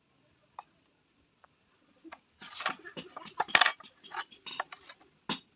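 Metal clinking and tapping: after near silence, a quick, irregular run of sharp strikes of metal on metal starts about two seconds in and keeps going.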